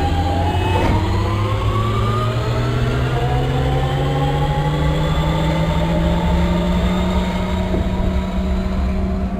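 Lisbon Metro ML90 train accelerating, its electric traction drive whining in several tones that start rising in pitch about a second in and keep climbing slowly, over a steady low rumble. A single click about a second in.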